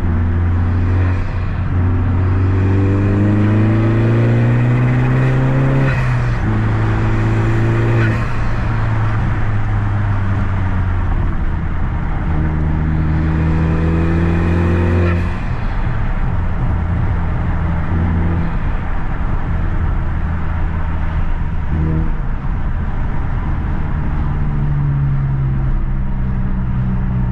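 Honda Civic FK2 Type R's turbocharged 2.0-litre four-cylinder with an aftermarket Eventuri intake, accelerating hard. Its pitch climbs, drops sharply about six seconds in, climbs again, drops again about fifteen seconds in, then settles into steadier running.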